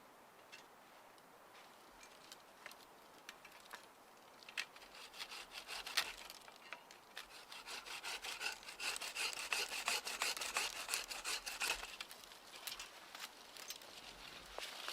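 Wood being cut with a hand saw: irregular scraping strokes with crackling clicks. They start about four seconds in and grow louder.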